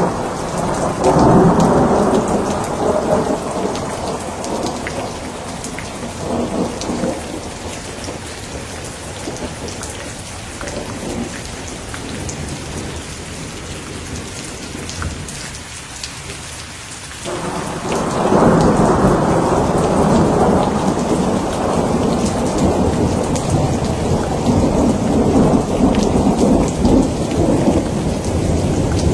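Steady rain falling, with thunder rumbling over it. One roll of thunder starts about a second in and dies away over several seconds. A second comes in abruptly about two-thirds of the way through and keeps rumbling to the end.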